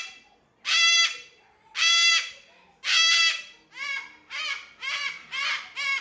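Cockatoos calling: loud, harsh calls about once a second, then from about four seconds in, shorter calls that rise and fall in pitch, coming about twice a second.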